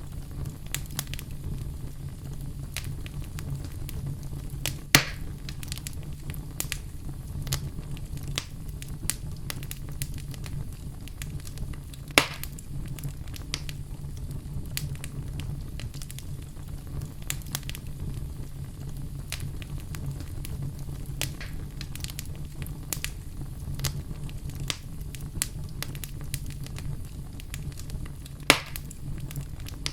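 Wood fire crackling in a fireplace: a steady low rumble with frequent small crackles, and three louder pops, about 5, 12 and 28 seconds in.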